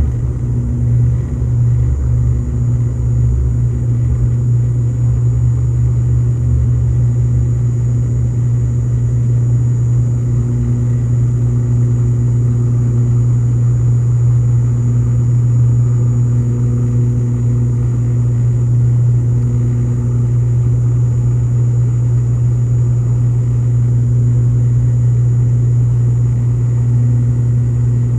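Steady cabin drone of an ATR 72-600's Pratt & Whitney PW127M turboprops and six-blade propellers. It is a loud, low, even hum with a faint beat that swells and fades in a higher band, and a thin high whine above it.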